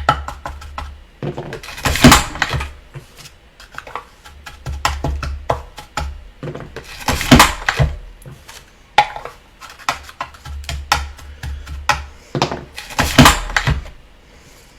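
Hawk-Matic HK-1 hand-operated cigarette injector machine worked quickly, filling tubes one after another: rapid clicks and clatter of loading and handling, with three loud strokes of the hydraulically assisted handle about every five seconds.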